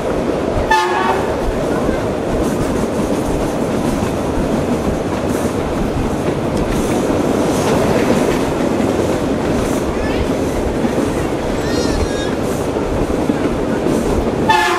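A metre-gauge passenger train running along the track, with wheels clattering over the rail joints under a steady rumble, heard from inside the coach. Brief sharp sounds stand out about a second in and again at the very end.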